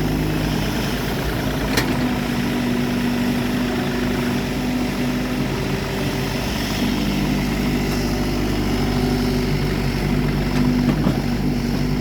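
A work machine's engine idling steadily, with a single sharp click about two seconds in.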